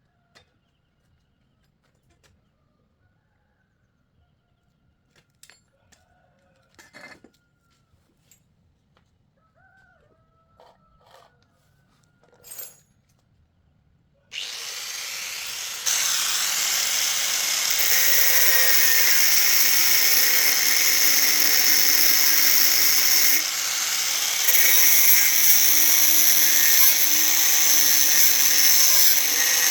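A few faint clicks and knocks, then about halfway through a handheld power tool starts up and runs loud and steady, with a short dip in level near the end.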